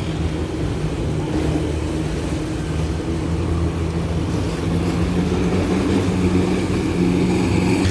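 A vehicle engine running with a steady low drone, with a faint high whine coming in about five seconds in.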